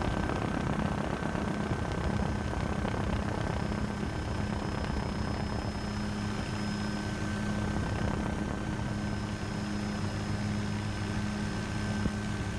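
Helicopter running steadily in flight: a constant rush of rotor and engine noise with a steady low hum and a thin high whine.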